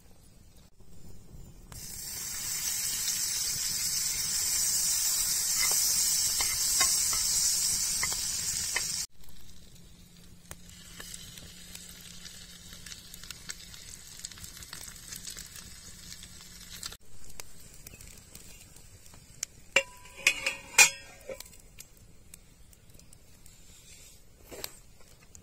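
Egg-soaked bread sizzling loudly in a hot frying pan, then sizzling more quietly. Near the end comes a quick run of sharp metal clanks with a short ring as a metal lid is set on the pan.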